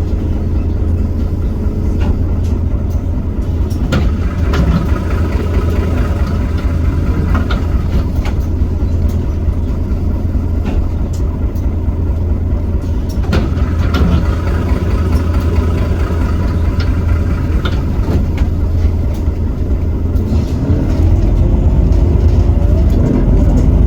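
Iveco Cursor 8 six-cylinder diesel of a Heuliez GX327 city bus running steadily at low revs, with a few sharp knocks. About 20 seconds in, a kickdown: the ZF Ecomat automatic drops down and the engine revs climb as the bus accelerates hard.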